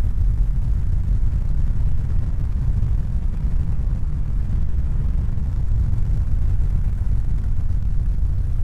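A steady low rumble of noise with no distinct events, strongest in the bass.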